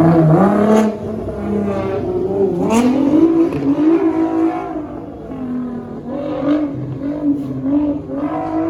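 Sports car engines revving as cars pull away: the pitch climbs in the first second and again about two to three seconds in, followed by a series of short throttle blips.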